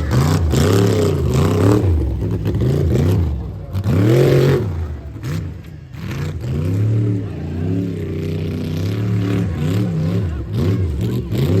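Truck engine revving hard over and over, its pitch climbing and dropping in repeated surges as the throttle is worked through a tough truck course.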